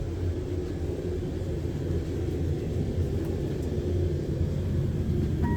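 Steady low rumble of an Amtrak passenger train, heard from inside the coach. Right at the end, a public-address chime begins.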